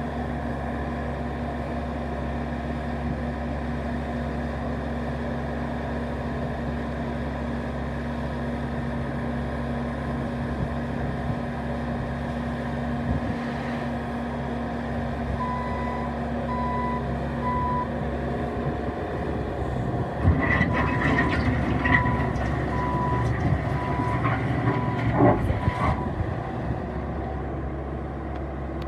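Bobcat S650 skid steer's diesel engine running steadily. From about halfway, its reversing alarm beeps at a steady pace. A few seconds later the engine grows louder, with metallic clanks and knocks as the machine moves.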